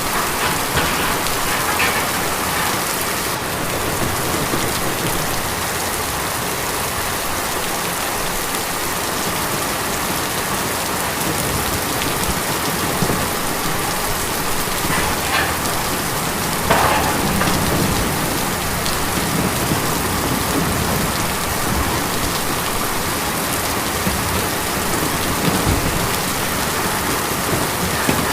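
Steady heavy rain drumming on a tin roof, a dense even hiss of drops, with a few brief louder spatters.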